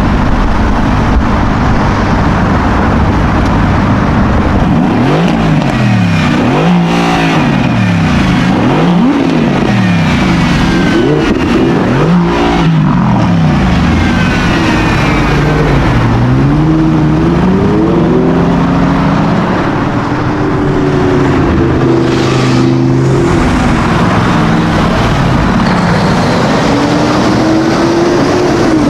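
A high-performance car engine revved hard several times in quick succession, its pitch shooting up and falling back about once a second, then climbing and dropping in steps as it keeps revving and pulling away, over steady street traffic noise.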